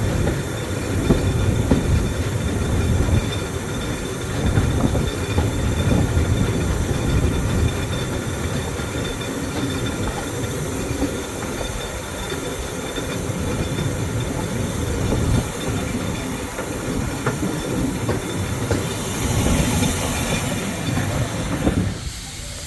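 Heritage railway shuttle train running along the line: a steady low rumble and clatter of carriage wheels on the rails, cutting off abruptly near the end.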